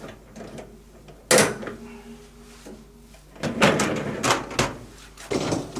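Wire dishwasher rack clattering as its fold-down tines are pushed flat: a sharp clack about a second in with a brief metallic ring, then a run of rattling knocks in the second half.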